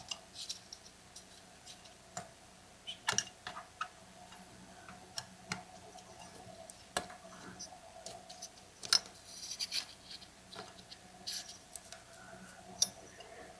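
Sparse, irregular small clicks and taps of hands working on a chainsaw's ignition coil and flywheel, setting the coil's air gap with a business card.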